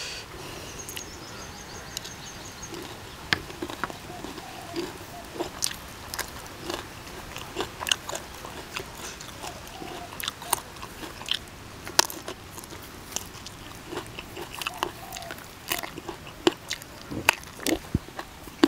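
A person chewing and crunching mouthfuls of crispy-skin duck larb with raw vegetables such as pea eggplants, with many irregular sharp crunches.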